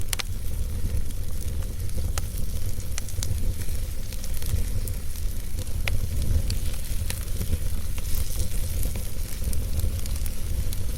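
Wood fire burning in a fireplace: a steady low rumble and hiss with irregular sharp crackles and pops from the logs.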